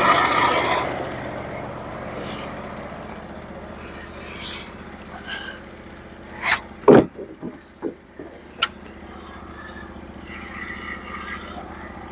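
Engine of a Norwood HD36v2 portable bandsaw mill running steadily, with louder sawing noise dying away in the first second or two. About halfway through come a handful of sharp knocks and clanks.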